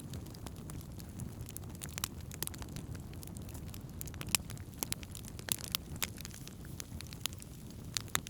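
Wood campfire burning: irregular sharp crackles and pops of burning wood over a low steady rumble, with one louder pop about four seconds in.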